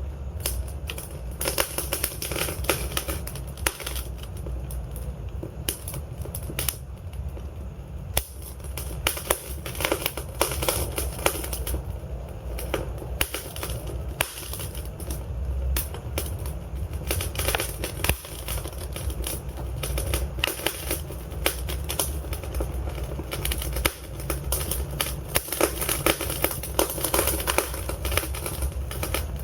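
Wood fire burning in a fireplace: logs crackling with dense, irregular pops and snaps over a low, steady rumble of flame.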